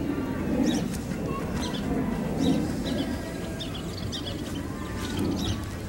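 Small birds chirping, many short high chirps scattered throughout, over a steady low outdoor rumble.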